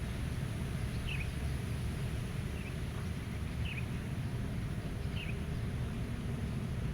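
Meadow ambience: a steady low rush of wind, with a small bird giving four short chirps about a second and a half apart.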